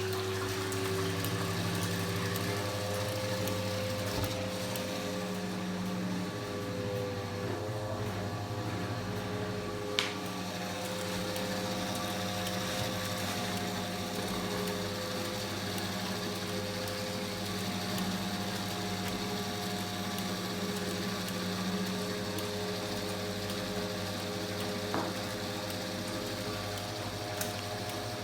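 Washing machine running through its cycle: a steady electric motor or pump hum whose pitch shifts slightly now and then, with a few faint clicks.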